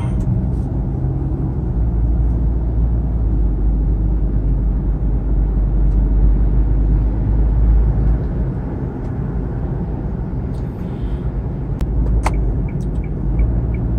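In-cabin engine and road noise of a Kia Morning small hatchback driving at speed: a steady low rumble that eases off slightly about two-thirds of the way through, with a few faint clicks near the end.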